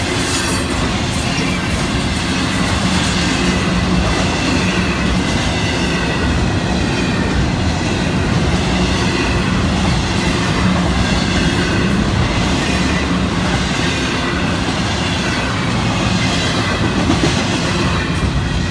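Florida East Coast Railway intermodal freight train rolling past, with a steady loud rumble of cars and wheels on the rails and a faint wavering squeal above it.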